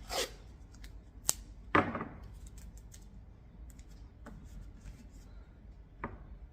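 Masking tape being torn and pressed onto the back of a plastic number plate: a few sharp clicks and taps, the loudest with a short rasp, with quiet handling noise in between.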